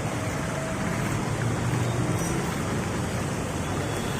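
Steady rushing noise of traffic on a wet, rain-soaked road, with a low rumble underneath and no distinct separate events.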